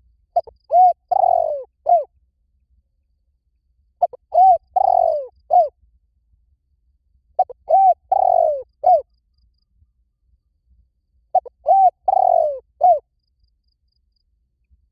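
Spotted dove cooing: four phrases at a steady pace, one every three and a half to four seconds. Each phrase is a short note, an arched coo, a longer falling coo and a short closing note.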